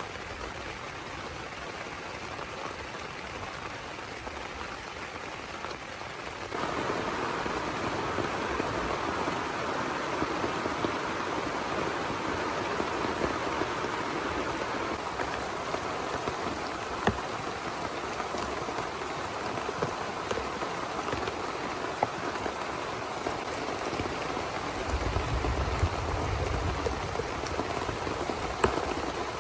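Heavy rain falling steadily, with scattered louder drop ticks. It gets louder about six seconds in, and a low rumble comes through near the end.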